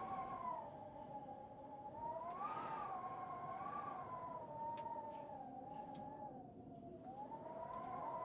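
Rain and a few faint fireplace crackles under a wavering double tone that slowly rises and falls, like a distant wail.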